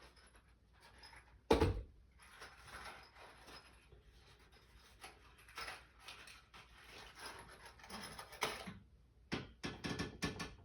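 Handling noises: rustling and small clicks of parts being handled, with one sharp knock about a second and a half in and a quick run of clicks and knocks near the end.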